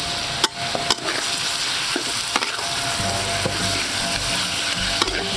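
Raw frog pieces sizzling in hot oil and spice paste in a wok, stirred with a spatula that clicks and scrapes against the pan now and then.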